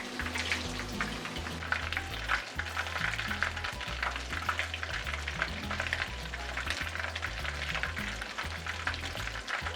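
Chicken nuggets deep-frying in hot oil: a steady sizzle with many small crackling pops.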